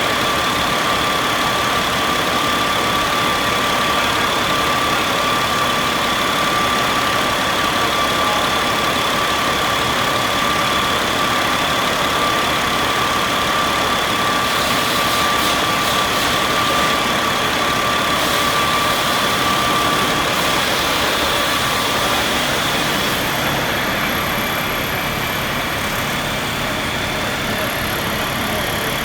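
Caterpillar 3126 inline-six diesel engine running steadily, with a steady high whine over the engine noise. The whine stops about three quarters of the way through, and the sound gets slightly quieter.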